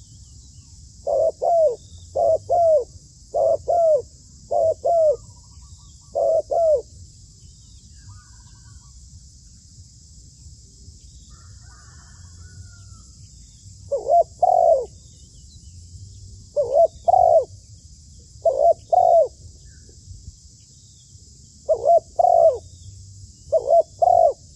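A dove cooing in short, repeated two-part calls. A quick run of five comes over the first seven seconds, then a pause of about seven seconds, then five more calls spaced a couple of seconds apart, over a steady high insect drone.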